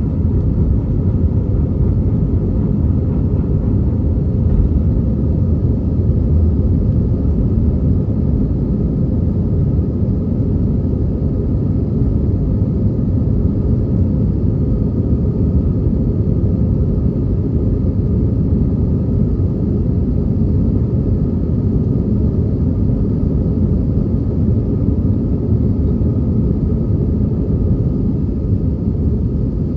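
Steady jet engine and airflow rumble inside the cabin of an Airbus A319 during takeoff, deep and unbroken, with a faint steady whine above it.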